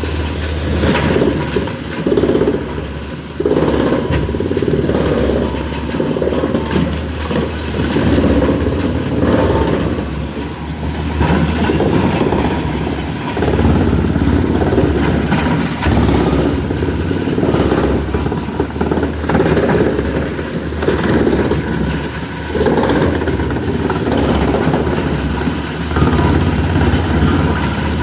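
Heavy diesel machinery running steadily, its load surging and easing every second or two.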